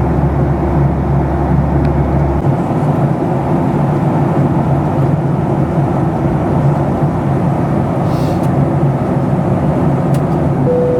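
Steady cabin noise inside a Boeing 737-700 in flight: the engines and rushing air make a dense, even rumble. The deepest part of the rumble drops away a couple of seconds in, and a brief tone sounds near the end.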